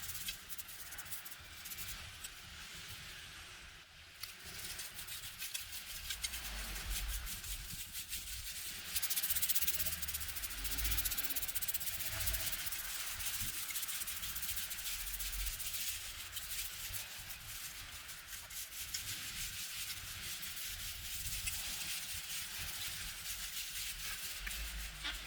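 Continuous rasping scrubbing, a dense run of fine scratching strokes against a hard surface, louder from about nine seconds in.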